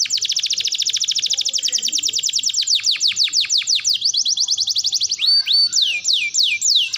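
Domestic canary singing a long song: rapid trills of fast downward-sweeping notes that slow into a few separate falling notes, with a couple of held whistled notes about five seconds in.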